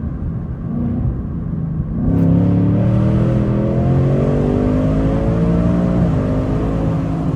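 2024 Mustang GT's V8, fitted with high-flow air filters and with its intake carbon traps removed, running steadily and then accelerating about two seconds in. The revs climb until a gear change about six seconds in drops them, and the engine pulls on.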